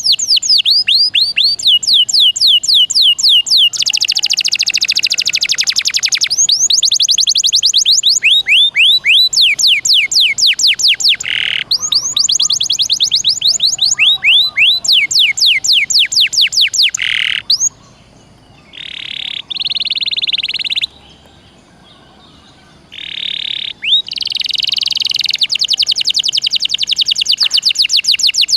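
Domestic canary singing a long song of fast trills, rapid strings of repeated falling notes, broken by harsher buzzy rolls. The song pauses briefly twice about two-thirds of the way through, then resumes with more buzzy rolls and trills.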